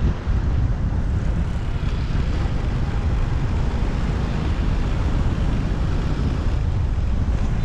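Steady low rumble of wind on the microphone and road noise from a moving motorbike.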